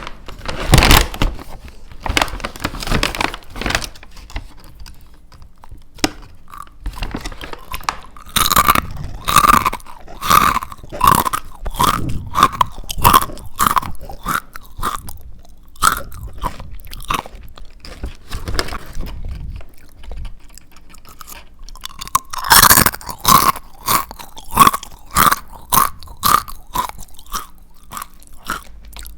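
Close-miked crunchy chewing of fried chicken skin: crisp bites and crunches come in runs of about two a second, with softer chewing between the runs.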